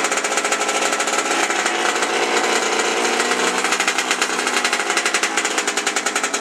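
1989 Yamaha YZ80's single-cylinder two-stroke engine running at idle after a cold start, with a rapid, even firing beat and a pitch that wavers a little.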